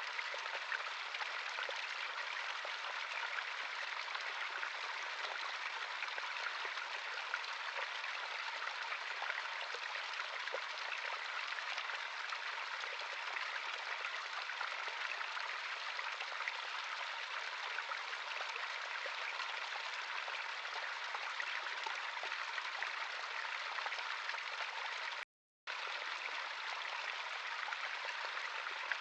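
Running water of a natural stream, a steady rushing and splashing, cut off for a split second about 25 seconds in.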